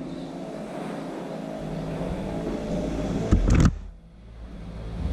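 Kawasaki Z800's inline-four engine running steadily, its level slowly building. About three and a half seconds in there is a brief loud thump, after which the sound drops away for a moment before the engine picks up again.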